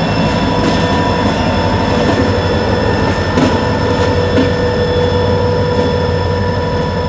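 Freight train moving, with several steady high-pitched squealing tones held over a low rumble and a few faint clicks.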